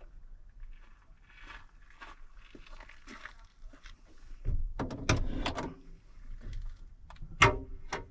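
A van door being opened and shut, with soft rustling and small knocks, then a longer rumbling clatter about four and a half seconds in and a sharp bang near the end.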